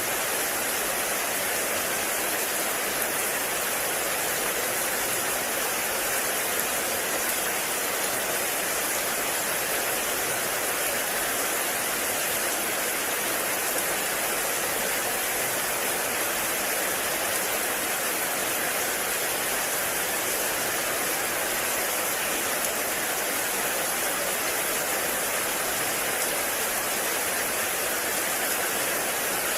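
Heavy rain falling steadily in a forest, an even, unbroken hiss of water with no single drops standing out.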